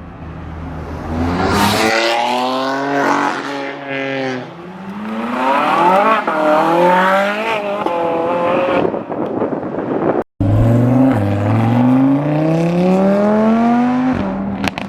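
Car engines revving and accelerating hard, their pitch climbing in repeated long rises. The sound cuts off abruptly a little after ten seconds in, then resumes with another rising rev.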